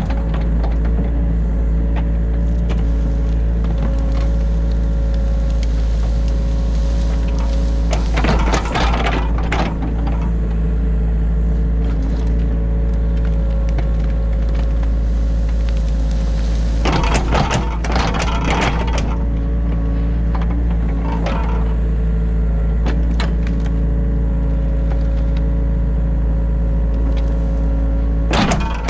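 Excavator's diesel engine running steadily under load, heard from inside the cab, with a few bursts of rougher noise from the digging work, the loudest about 8 and 17 seconds in.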